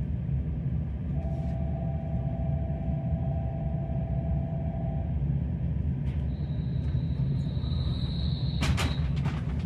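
Steady low rumble of a train standing at a station platform before departure. A thin, steady mid-pitched tone sounds for about four seconds. Later a high thin tone comes in, and a brief clatter of clicks follows near the end.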